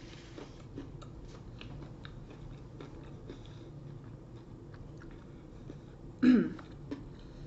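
Close-miked chewing of food, with many small wet mouth clicks and crunches. About six seconds in there is one brief, loud voiced sound from the throat.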